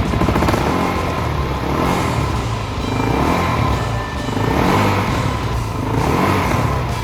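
Suzuki DR-Z400's single-cylinder four-stroke engine running through a DEP S3 aftermarket exhaust, blipped up and dropping back a few times.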